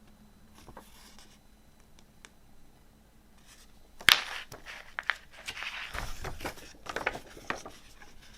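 Hands handling a CD and its packaging: a few faint touches, then a sharp click about four seconds in, followed by a run of clicks and rustles.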